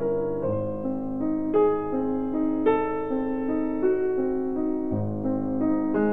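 Background piano music: a gentle melody of single held notes over slower-changing bass notes, with no drums.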